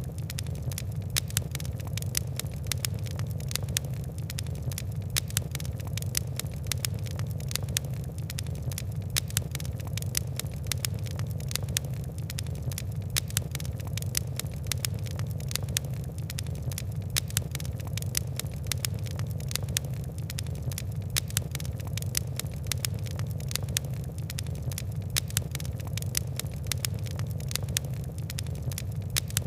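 Wood and coal fire crackling: a dense run of sharp crackles and pops, several a second, over a steady low rumble of the flames.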